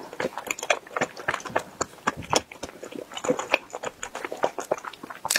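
Close-miked chewing of a soft, sticky glutinous-rice dumpling (qingtuan): many quick wet mouth clicks and smacks.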